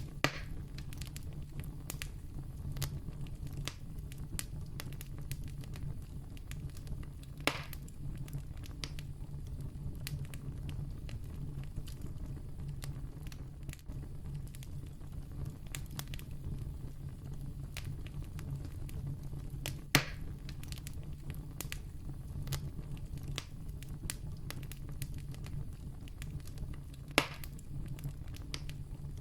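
Wood campfire crackling: a steady low rumble with many small snaps, and four louder pops spread through it.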